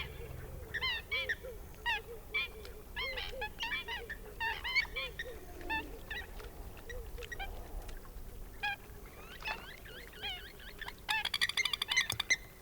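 Several birds calling, a continuous overlapping series of short, repeated calls, with a fast rattling run of calls near the end.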